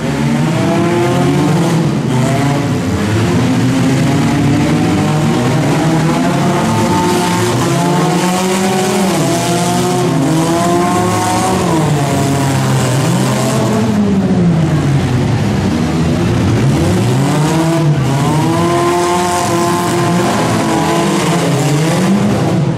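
Several four-cylinder demolition-derby cars revving hard together, their engine pitches rising and falling over one another as they accelerate and reverse.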